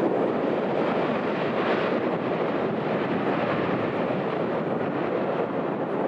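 Steady jet noise from a Boeing 737-800's CFM56-7B turbofans as the airliner passes, mixed with wind on the microphone.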